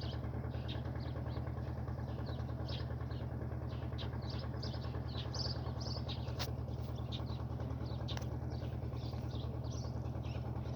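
Small birds chirping over and over, high and short, above a steady low mechanical hum like an idling engine, which is the loudest sound.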